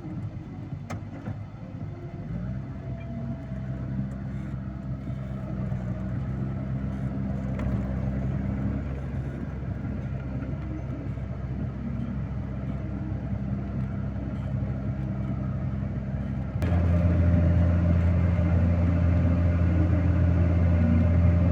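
Vehicle engine running steadily with a low hum. About seventeen seconds in it becomes suddenly louder and deeper.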